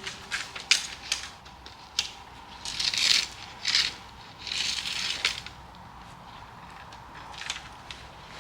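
Tent-pitching handling noises: a few sharp clicks and knocks of the poles, then several short rustling scrapes of the tent fabric.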